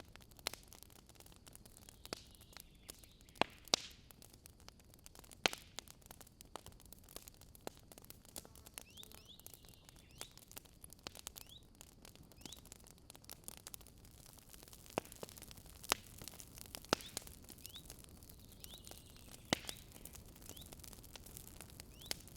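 Wood campfire burning, crackling with irregular sharp pops and a few louder snaps over a soft hiss.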